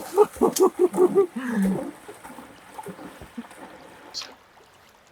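A rapid run of about seven duck quacks in roughly a second, followed by a lower drawn-out note. After that, only faint water and rustling.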